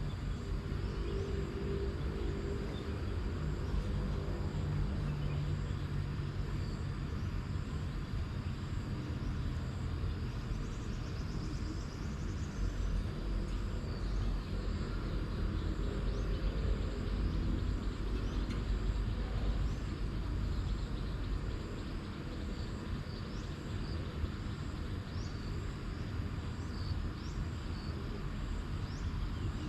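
Outdoor field ambience: a steady low rumble with a faint engine-like hum, like distant traffic, under an even hiss, with a few short bird chirps in the second half.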